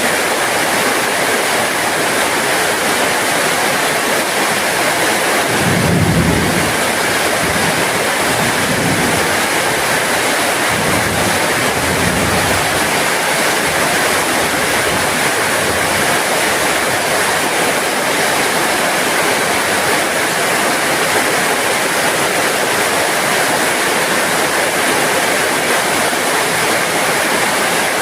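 Heavy rain falling steadily. A low rumble rises about six seconds in and rolls on in waves until about thirteen seconds in.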